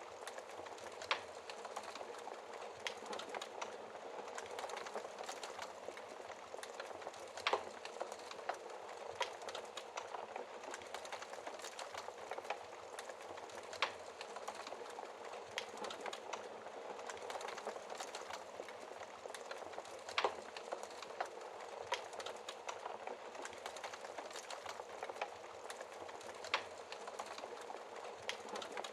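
Wood fire crackling steadily, with dense small snaps and a few louder pops several seconds apart.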